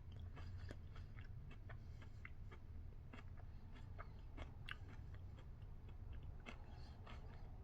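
A person chewing a milk chocolate bar with crunchy waffle cone pieces, with faint irregular crunching and mouth clicks over a low steady hum.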